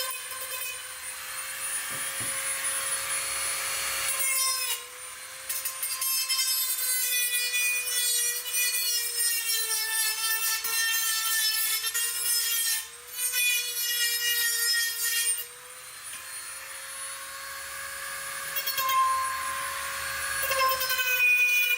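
Angle grinder grinding steel, a steady motor whine that sags in pitch while the disc bears on the metal, over a harsh hiss. The grinding lets up briefly three times.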